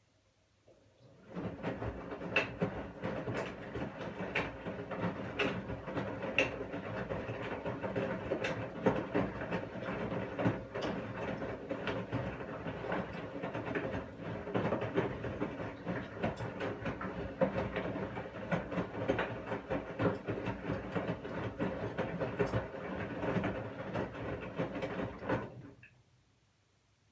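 Washing machine running a wash cycle: the motor turns the drum with a steady hum while the load tumbles with irregular knocks and clicks. It starts about a second in and stops shortly before the end.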